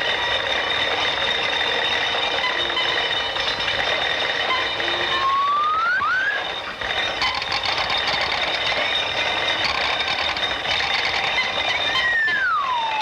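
Old, hissy early-sound-film soundtrack with a steady hum of several tones. A short whistle-like sound effect rises in pitch a little before the middle, and a longer one slides down in pitch near the end.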